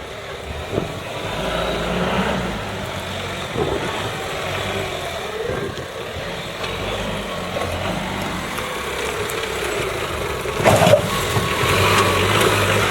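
A vehicle engine running steadily at low revs, with a sharp knock about three-quarters of the way through.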